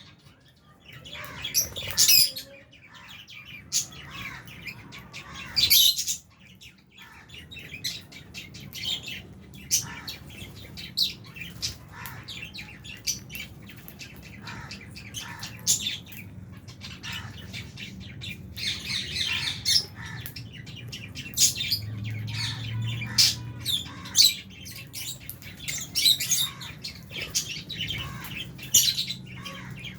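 A colony of lovebirds, albino and Fischer's lovebirds, chirping and squawking: many short, sharp, high calls overlapping at an irregular pace, with a faint low hum underneath.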